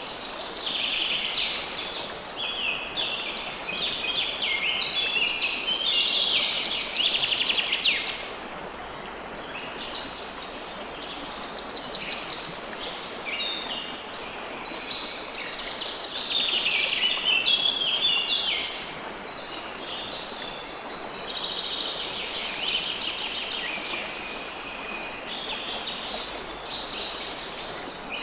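River water flowing steadily, with birds chirping over it in repeated bursts of quick, high trilled song.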